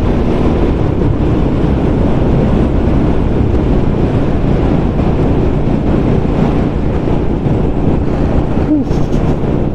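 Wind rushing over the microphone along with motorcycle engine and road noise, steady throughout, while riding.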